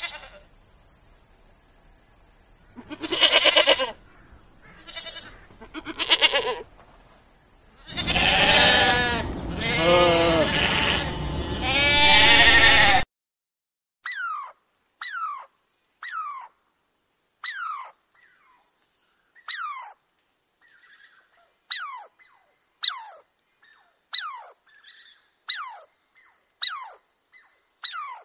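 Sheep bleating: a few shorter calls, then three long, loud bleats. After that come short falling chirps, about one a second.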